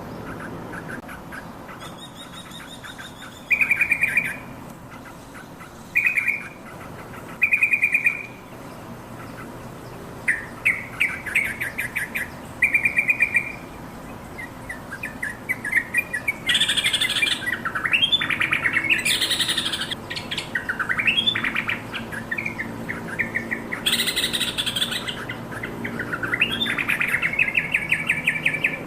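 Yellow-vented bulbul calling: short bursts of quick, bubbly chattering notes, spaced apart at first and running almost without a break from about halfway, with a few louder harsh notes among them.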